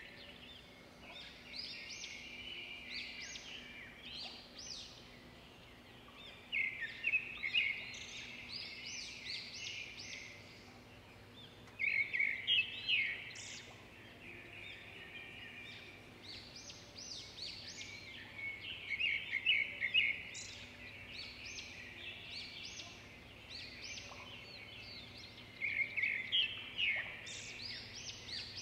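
A songbird singing: a loud phrase of rapid high notes about every six seconds, four times, with quieter chirping between phrases.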